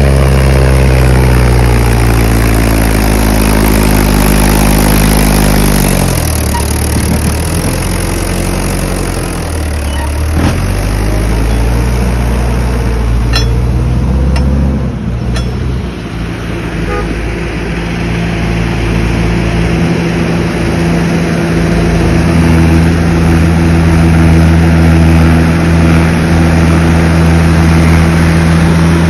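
Mahindra tractor's diesel engine running under load, its pitch falling over the first few seconds as the revs drop, then shifting through the middle before settling to a steady note for the last ten seconds or so.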